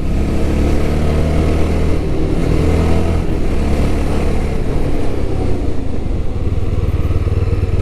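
Yezdi Scrambler's 334 cc single-cylinder engine running as the bike is braked hard to a stop. The engine note drops, and in the last couple of seconds it settles into an even, rapid pulsing idle.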